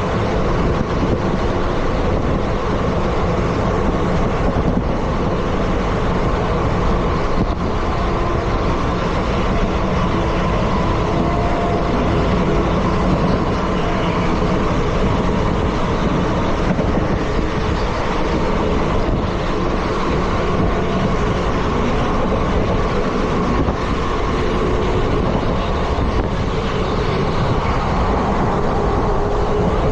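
Steady rumble and roar of an Indian Railways ICF passenger coach running along the track, with faint humming tones running through it.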